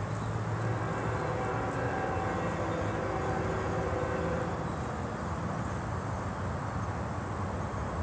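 Distant train rumbling steadily across the valley, with a faint horn sounding in the distance around the middle.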